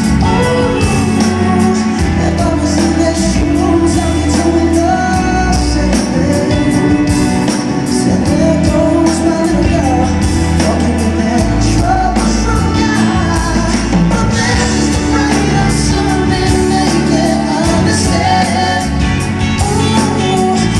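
Live performance of a pop-soul ballad: a singing voice over a full band with sustained bass notes, played loud and steady.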